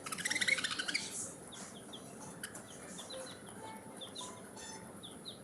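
Budgerigars chattering: a loud burst of rapid chatter in the first second, then many short, quick high chirps.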